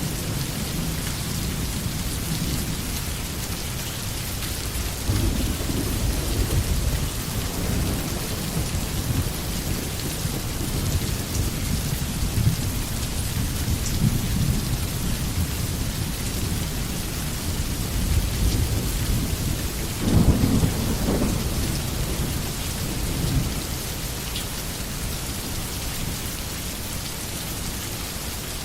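Steady heavy rain falling, with low thunder rumbling and swelling at intervals. The loudest rumble comes about two-thirds of the way through.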